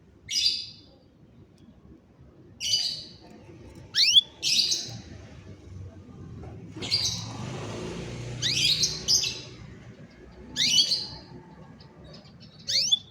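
Domestic canary giving short, bright chirping calls about every two seconds, several with a quick rising sweep.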